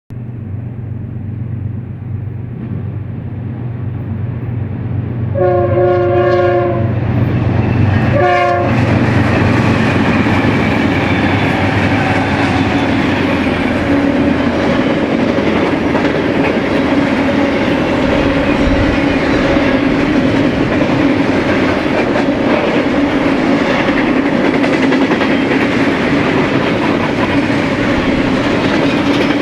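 BNSF diesel freight train passing close by. The locomotive's engine hums, then its air horn sounds one long and one short blast. The loud, steady rumble and clatter of the wheels over the rails follows, with a persistent ringing tone from the wheels.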